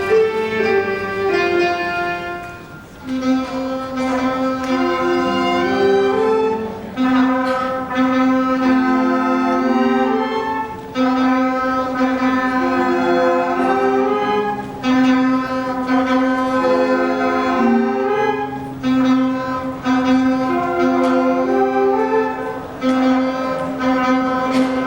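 Bowed strings playing a slow, stepwise melody over a sustained lower note.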